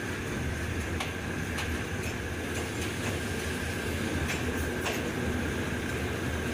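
Passenger train running on jointed track, heard through an open coach window: a steady rumble of wheels on rail, broken by sharp clicks at uneven spacing as the wheels cross rail joints.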